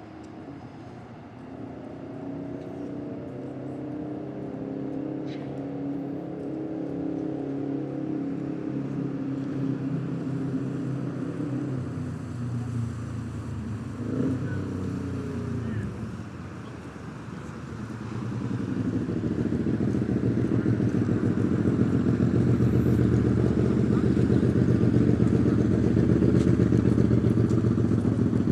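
Low rumble of a passing vehicle, with engine or motor tones gliding up and down in pitch, growing much louder about 18 seconds in and staying loud.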